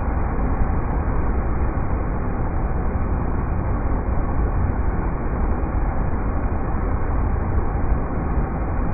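River rapids rushing in a steady, unbroken stream of noise, heaviest in the deep low end.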